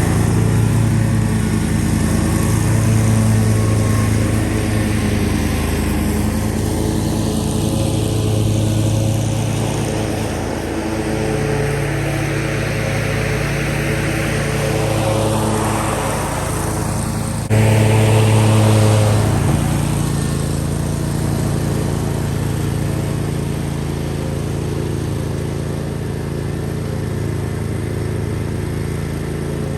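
Zero-turn mower engine running steadily while mowing. Just over halfway through the sound changes abruptly and is louder for a couple of seconds before settling back.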